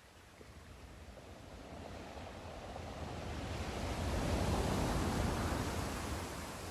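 Sea surf: a wave builds to a rushing peak about two thirds of the way through, then draws back.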